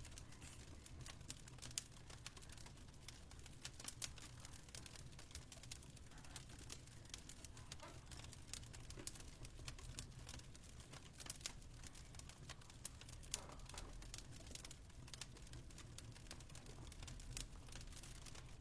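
Wood fire crackling faintly, with many small irregular pops and snaps over a steady low hum.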